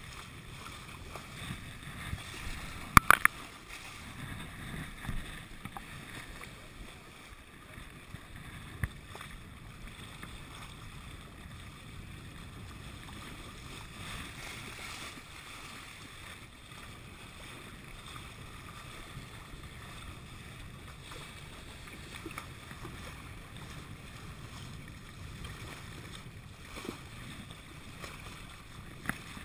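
Steady water noise along a sailboat's hull, with a quick cluster of sharp knocks about three seconds in and a couple of single knocks later.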